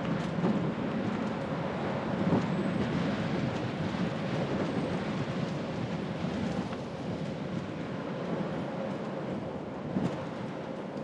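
Bicycle tyres rolling along a road, a steady rumble, with a faint constant hum and a couple of light knocks from bumps.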